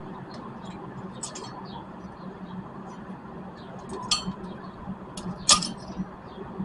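Light metal clinks from brake parts and tools being handled, three short ones spread over a few seconds, the last the loudest, over a faint steady hum.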